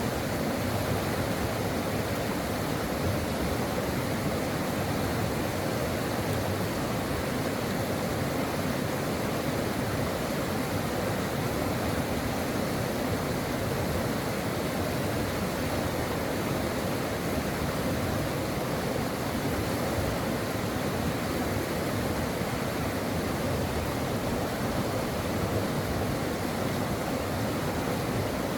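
Stream water running steadily over its bed, a constant rushing with no breaks.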